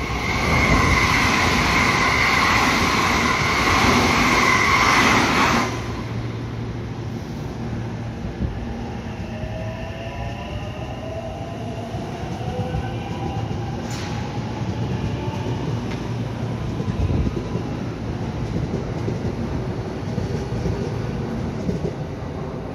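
A JR West 223 series electric train runs along the far track, loud, with two steady whining tones, until an abrupt cut about six seconds in. Then a commuter electric train pulls away from the platform, its motor whine rising in pitch as it accelerates, with one sharp tick in the middle.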